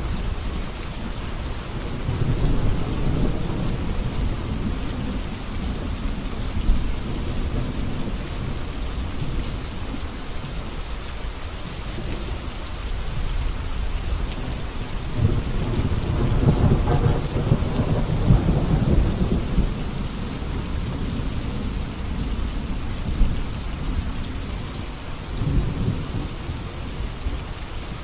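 Steady rain with thunder rolling in low rumbles, one about two seconds in and a longer, louder roll about halfway through.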